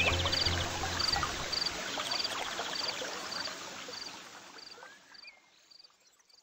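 Forest nature ambience of chirping insects: a short high chirp repeating a little under twice a second, with two brief buzzy trills, over a soft even hiss. The tail of the background music dies away in the first second, and the whole sound fades out to silence about five seconds in.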